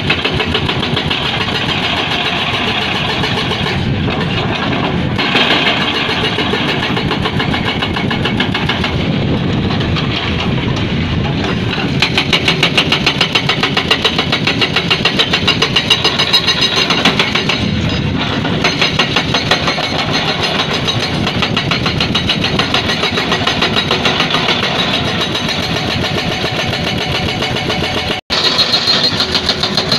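Excavator-mounted hydraulic breaker hammering rock in a fast, steady train of blows over the excavator's running diesel engine. The sound cuts out for an instant near the end.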